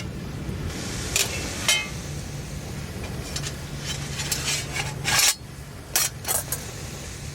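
Metal camp gear being handled: a series of separate clinks and knocks, one with a brief metallic ring, the loudest a little past the middle, over a steady low rumble.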